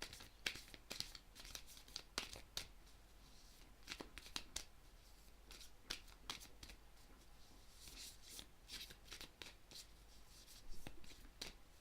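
A deck of tarot cards being shuffled and handled, with irregular light snaps and taps of the cards.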